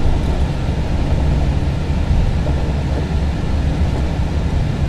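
Steady low rumble of cockpit noise in an Airbus A321 taxiing after landing: the engines running at idle and the aircraft rolling along the taxiway.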